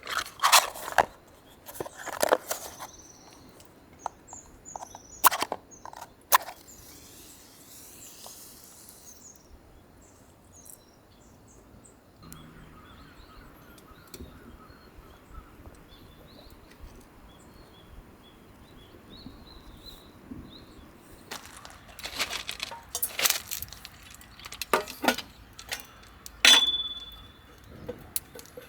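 Scattered knocks and clatters of camp gear and firewood being handled, in two busy spells with a quieter stretch between them, where faint bird chirps can be heard. Near the end, one sharp metallic clink rings briefly.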